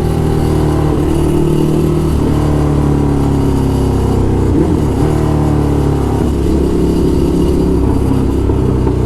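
Ducati Hypermotard SP's V-twin through SC Project exhausts, accelerating hard through the gears. The revs climb and drop back at each gear change, about two, four and a half, and six seconds in.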